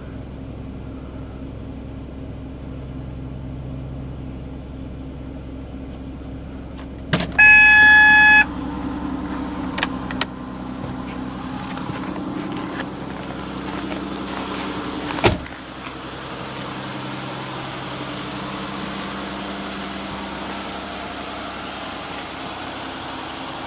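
2005 Mercury Sable's Duratec V6 idling steadily just after a cold start at 10°F. About seven seconds in, a loud steady beep sounds for just over a second. A few sharp clicks follow, then a single thump about fifteen seconds in.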